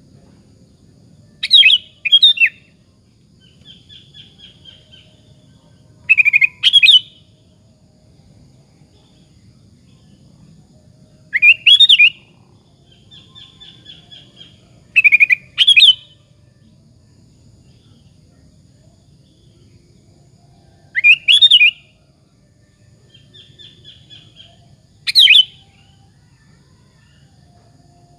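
Sooty-headed bulbul (kutilang) singing: loud, short phrases of two quick notes, repeated about every four to five seconds, with softer chattering between phrases.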